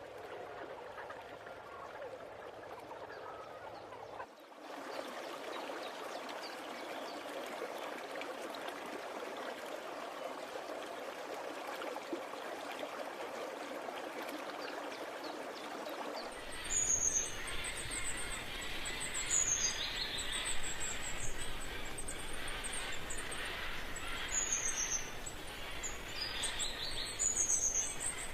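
Rainforest ambience edited in sections: a steady hiss-like chorus of natural noise, then, from about two-thirds of the way in, repeated short high-pitched bird calls with quick sweeping pitch over it.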